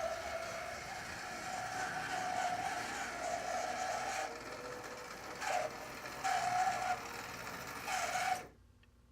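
HO-scale brass model of a Union Pacific SD40-2H diesel running, its electric motor and gear drive giving a steady, noisy whine that swells louder a few times. It cuts off abruptly near the end.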